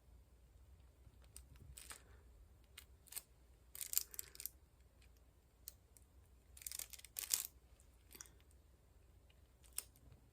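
Diamond painting work: scattered light ticks and short crinkly rustles, the two loudest about four and seven seconds in, as square drills are picked up and pressed onto the canvas.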